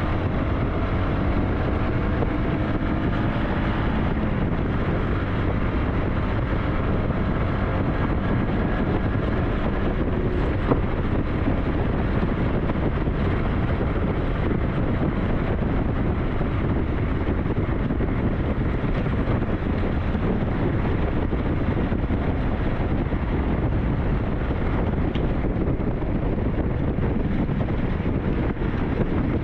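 SYM NH T 200 motorcycle engine running under way, its pitch shifting in the first few seconds, with steady wind noise buffeting the microphone.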